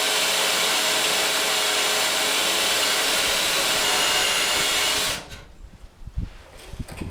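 A handheld power tool runs steadily on a truck-frame rivet, then stops abruptly about five seconds in, followed by a few light knocks.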